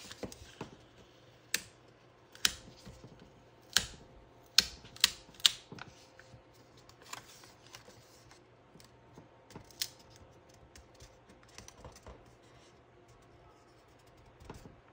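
Sharp taps and clicks, several in the first half and one more a few seconds later, with faint rustling between, from stickers and planner pages being handled and pressed down on a desk.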